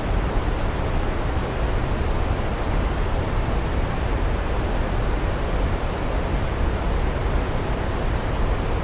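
Waterfall rushing, a steady, even noise heaviest in the low end.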